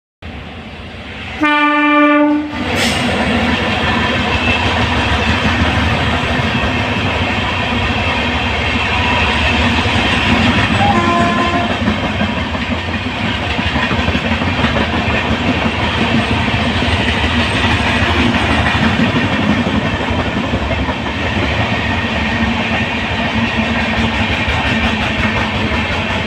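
WAP-7 electric locomotive sounding one loud horn blast of about a second, a second and a half in. The train's wheels and coaches then rumble and clatter steadily as it passes.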